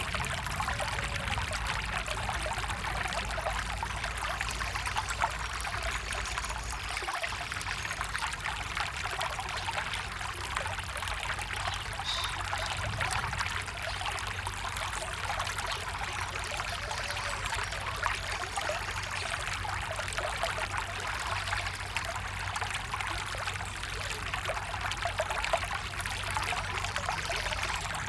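Steady rush of running water from a forest stream, even throughout with no rises or pauses.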